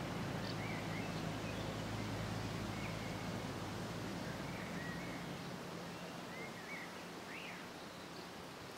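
Small birds chirping now and then over a low, steady engine hum that fades away about halfway through.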